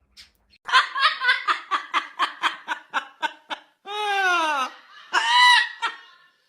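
High-pitched laughter: a rapid run of short "ha" pulses, about six a second, then two longer calls that fall in pitch.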